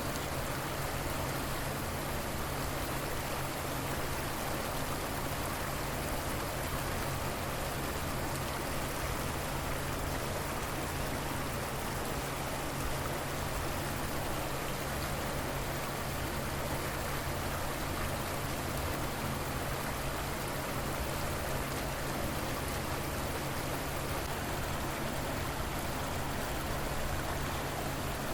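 River water flowing steadily with an even rushing sound, with a low hum underneath.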